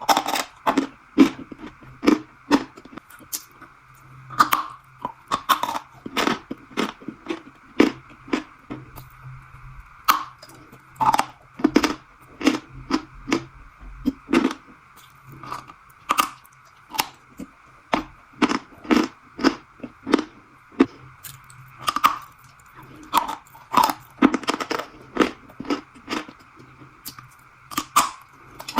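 Crunchy strawberry treat being bitten and chewed close to the microphone: a steady run of sharp crunches, about one to two a second, over a faint steady hum.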